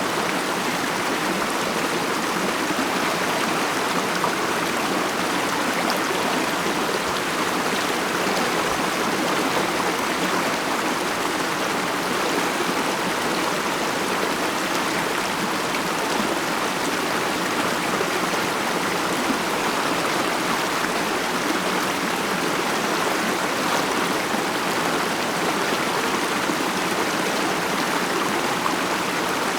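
Stream of running water flowing with a steady, even murmur.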